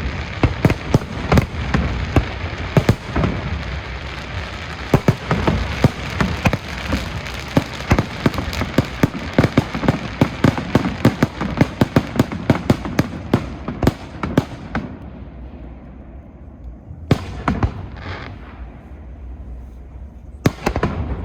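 Fireworks display: a dense run of rapid bangs and crackles that thins out about two-thirds of the way through, leaving a couple of single loud bangs near the end.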